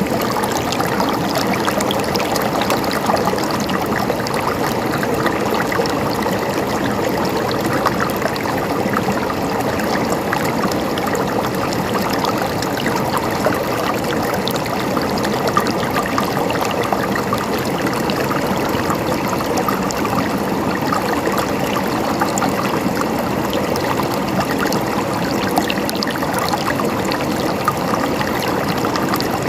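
River water flowing and splashing over stones, a steady babbling rush with small splashes and gurgles throughout.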